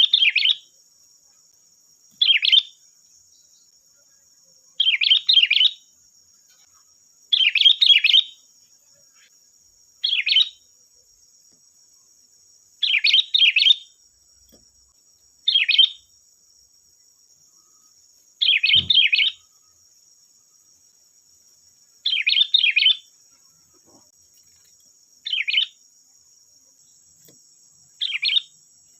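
Sooty-headed bulbul (kutilang) singing: short song phrases repeated every two to three seconds, about a dozen in all, over a faint steady high-pitched hiss.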